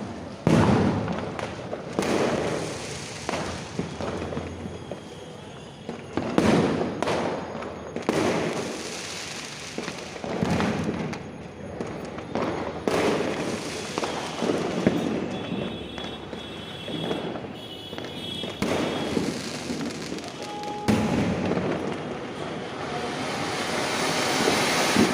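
Diwali fireworks and firecrackers going off in a string of sharp bangs, each trailing off in a rumbling echo. A long hiss swells up over the last few seconds.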